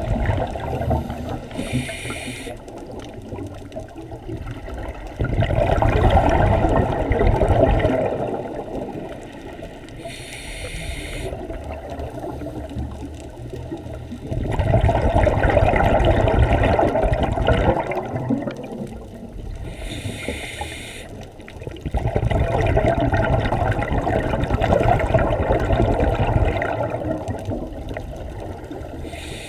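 Scuba diver breathing through a regulator underwater: a short hiss on each inhale and a long bubbling rush on each exhale, repeating about every eight to nine seconds.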